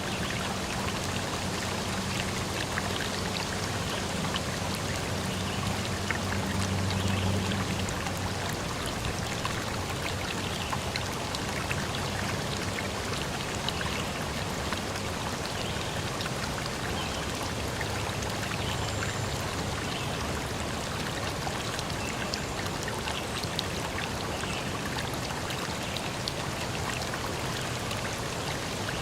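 Steady rushing of running water, a forest stream or rain. A low hum sits under it during the first eight seconds or so, then fades.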